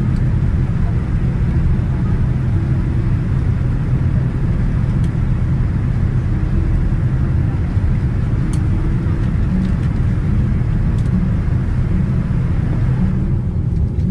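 Cabin noise of a Boeing 787-9 on the ground after landing: a steady low rumble with a hiss above it and a few faint clicks. The hiss drops away about a second before the end.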